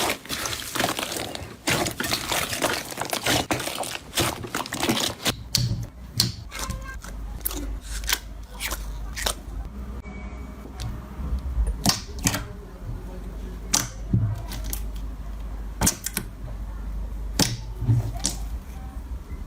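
Slime being squeezed and worked by hand: dense crackling and clicking for about five seconds, then sparser sharp pops and clicks over a steady low hum.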